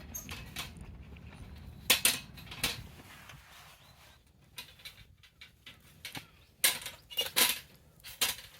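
Camp cookware and utensils being handled: scattered sharp clinks and knocks in two clusters, about two seconds in and again about seven seconds in.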